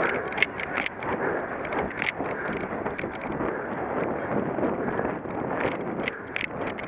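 Wind buffeting the microphone over the rattle of a cyclocross bike riding over rough ground, with frequent sharp clicks and clatters.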